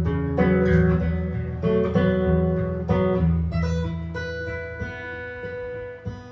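Improvised jazz guitar: chords struck every half second or so, then about halfway through the playing settles into a few held notes that ring and slowly fade.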